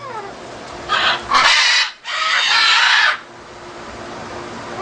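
Macaws squawking: three loud, harsh calls in quick succession between about one and three seconds in, the last one the longest.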